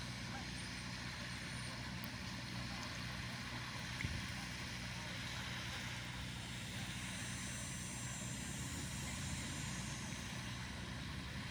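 Steady low engine hum with a constant background noise and one brief knock about four seconds in.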